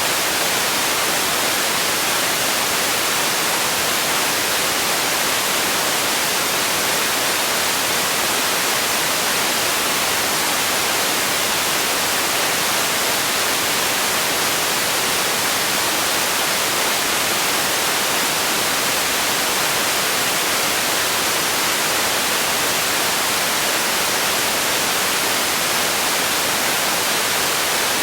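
Steady, unchanging hiss of generated white noise, bright and even, with no other sound.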